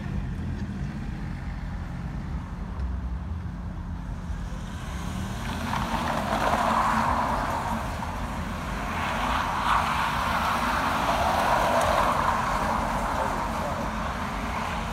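Car engines running as cars drive past at low speed, with a steady low rumble throughout and louder engine and exhaust noise swelling from about five seconds in, strongest around seven seconds and again from about nine to thirteen seconds.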